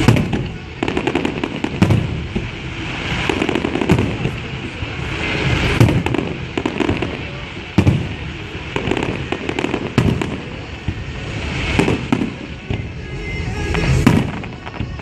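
Aerial fireworks shells bursting in a series of loud booms about every two seconds, with smaller pops and crackling between them.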